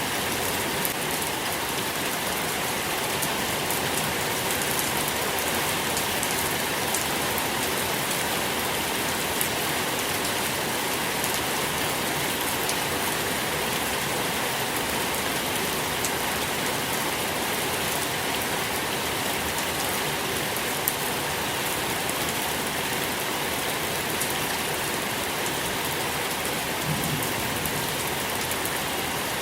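Steady rain falling on a surface, an even hiss with many small drop ticks, and one sharper drop a little past the middle.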